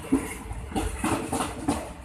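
Passenger coaches of a State Railway of Thailand rapid train rolling past as it pulls into the station. The wheels give an uneven series of sharp knocks over the rail joints, about five in two seconds, above a low rumble.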